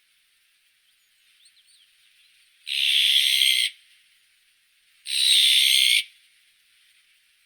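Azure-winged magpie giving two harsh calls, each about a second long and about two seconds apart, after a few faint thin chirps.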